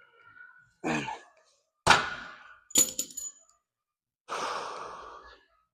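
Gym weights clanking as they are set down after a set: a sharp metal clank about two seconds in, then a second ringing clink just after. A breathy rush of noise follows about four seconds in.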